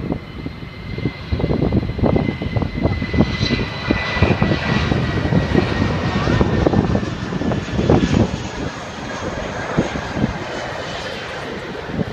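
Jet engines of a landing Boeing 777-200: a loud, ragged low rumble with a thin high whine that drops slightly in pitch.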